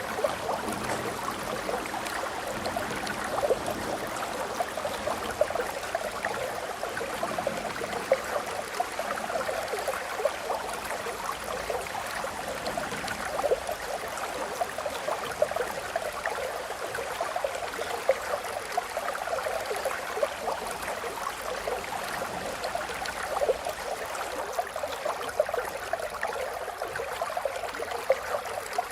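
A stream of water flowing and babbling steadily, with frequent small splashes and gurgles.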